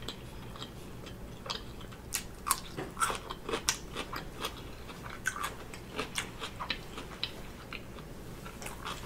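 A person biting and chewing a dill pickle spear up close: irregular crunchy, wet chewing clicks, several a second.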